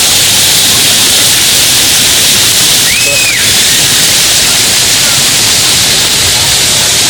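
Powerful waterfall rushing: a loud, steady roar of falling water. About three seconds in, a brief high whistle-like call rises, holds and falls over it.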